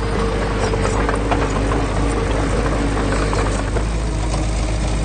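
Diesel engine of heavy earthmoving machinery running steadily, with a constant hum.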